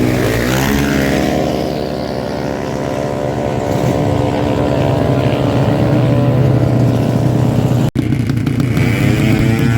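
Honda Karisma motorcycle engine: its pitch drops off a rev at the start, then it runs at a steady speed. It cuts out for an instant and revs up again near the end.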